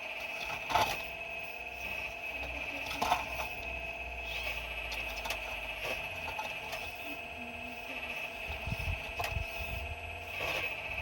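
Excavator working in rock: a steady high mechanical whine, with two sharp knocks about a second in and about three seconds in, and lighter clicks of rock.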